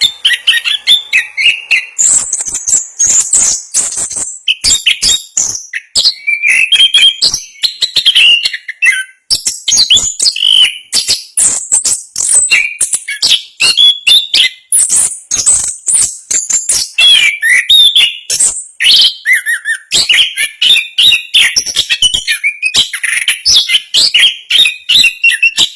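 Chestnut-capped thrush (anis kembang) singing a loud, fast, continuous song: varied whistles, trills and chattering notes packed tightly together with almost no pauses, in the rapid rolling style prized in songbird contests.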